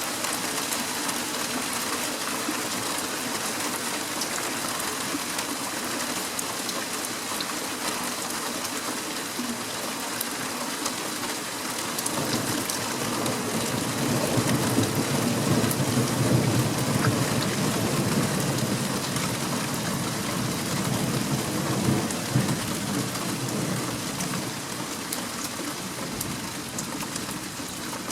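Steady rain hissing and pattering. About twelve seconds in, a long low rumble of thunder rolls in, swells and fades away over roughly ten seconds.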